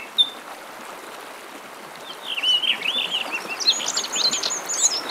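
Small birds singing over a steady background hiss: one short chirp at the start, then after about two seconds a run of quick chirped and warbled phrases that climbs higher toward the end.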